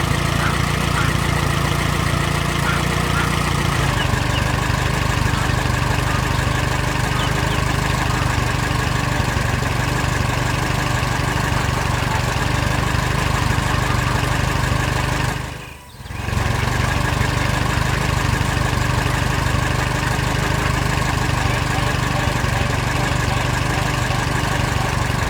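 Heavy farm harvester engine running steadily: a low drone with a steady high whine over it. It dips away briefly about sixteen seconds in and comes straight back.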